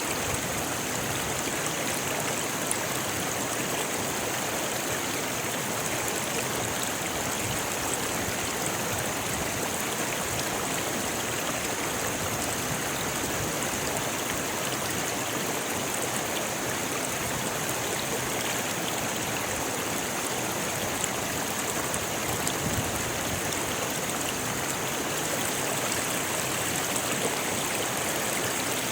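A rocky river flowing over stones, a steady, unbroken rush of water.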